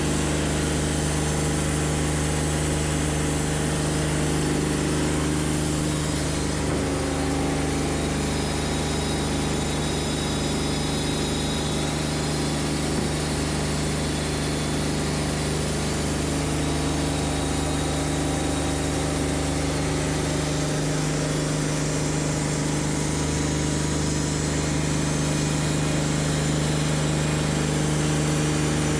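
Portable bandsaw sawmill (Wood-Mizer LT40Wide) running steadily, its engine holding an even pitch with a constant hiss of noise over it.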